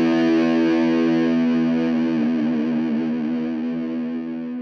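Intro music: a single distorted electric guitar chord, struck and left to ring, slowly fading, with a wavering passage near the middle.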